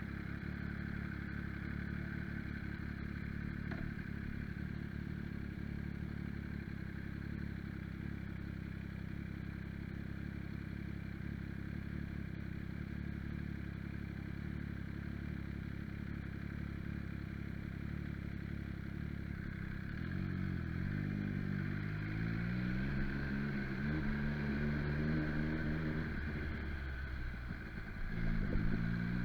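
MV Agusta Brutale motorcycle engine running at a steady pace while riding, then from about two-thirds in revving up and down as it accelerates through the gears, with a brief drop in revs near the end before pulling again.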